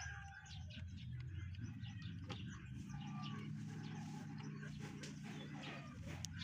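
Faint chickens and birds calling in the background over a low steady hum, with a couple of light clicks.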